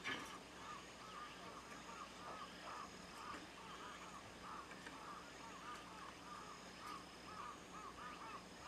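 A flock of Eurasian tree sparrows chirping busily, many short chirps following one another several times a second.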